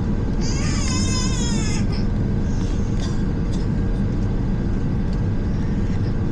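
Steady low rumble of an Airbus A350's cabin noise, heard from a passenger seat. About half a second in, a brief high-pitched wavering cry lasts for about a second and a half.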